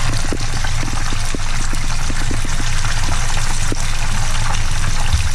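Beer-battered frog legs deep-frying in 350-degree oil: a steady sizzle dense with small crackles and pops, over a steady low hum.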